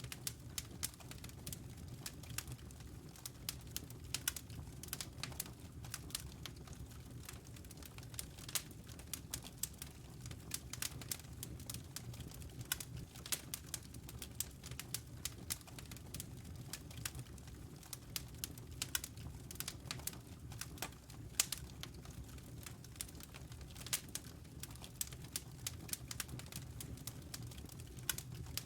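Logs burning in a fireplace, crackling with irregular sharp pops and snaps over a low steady rumble.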